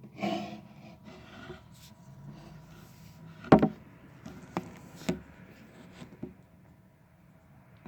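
A series of sharp knocks and taps with some rubbing, the loudest about three and a half seconds in, then four lighter ones over the next few seconds.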